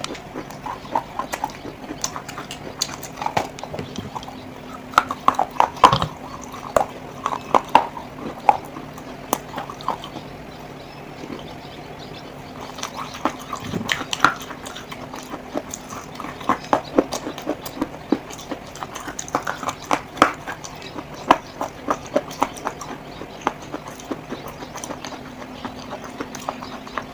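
Clay being handled, giving irregular sharp clicks and taps, sometimes in quick clusters, over a steady low hum.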